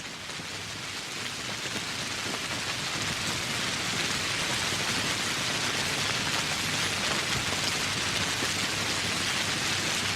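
Steady tropical rain falling on foliage and surfaces, a dense hiss of drops that fades in over the first couple of seconds and then holds even.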